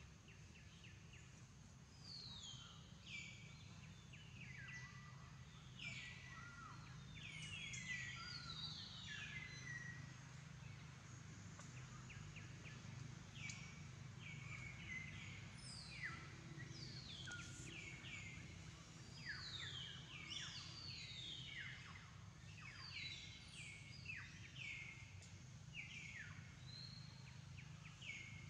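Birds calling over and over with quick falling whistles, several overlapping, starting about two seconds in, over a steady low background hum.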